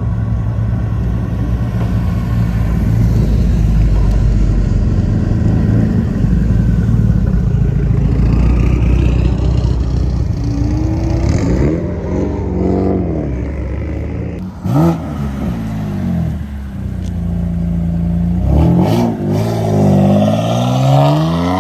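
Car engines running with a steady low rumble, then revving several times in the second half, each rev rising and falling in pitch, with the loudest one near the end.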